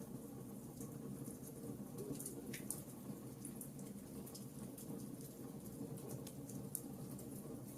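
Wood fire burning in a fireplace: a steady low rush of flames with frequent small crackles and pops from the burning logs, one sharper snap about two and a half seconds in.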